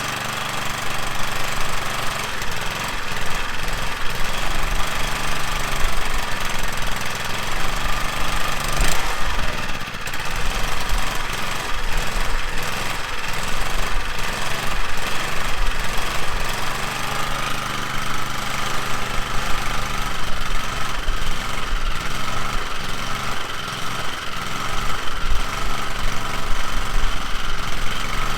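Coleman Powermate pressure washer's small gasoline engine running steadily.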